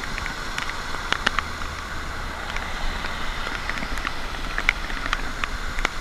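Steady rain falling, a constant hiss with many sharp, irregular drop ticks.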